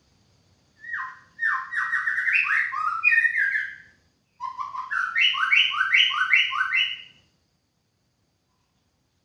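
White-rumped shama singing: two phrases of quick repeated notes, each about three seconds long, with a brief break between them.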